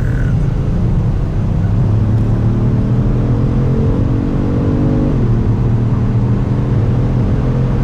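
Kia Stinger GT's twin-turbo V6, heard from inside the cabin, pulling under acceleration with its revs rising steadily, then dropping suddenly about five seconds in at an upshift before climbing again, over a steady road rumble.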